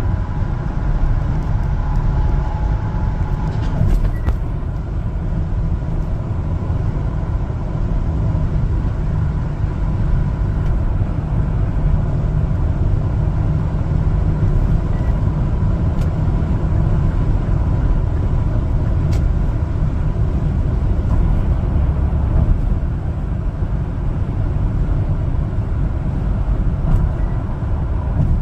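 One-ton LPG cargo truck being driven: a steady low rumble of engine and road noise with a faint steady whine.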